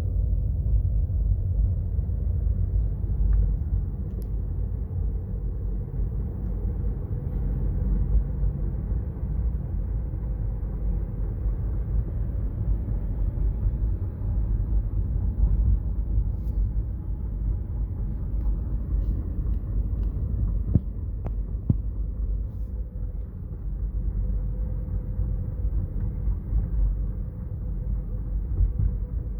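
A 2012 Chevrolet Cruze with a 6T30 six-speed automatic transmission being driven on the road after a transmission repair: a steady low rumble of engine and road noise, with a faint steady tone above it. There are a couple of short ticks about two-thirds of the way through.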